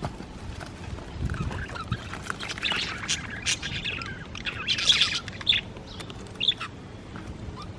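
Budgerigars chattering: many quick chirps and squawks from several birds, busiest and loudest about five seconds in.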